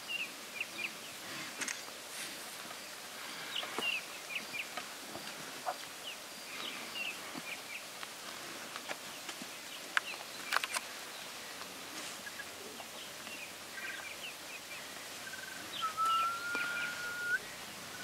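Wild birds calling in open bush: scattered short chirps throughout, and one drawn-out whistle that rises slightly near the end. A few sharp clicks about ten seconds in.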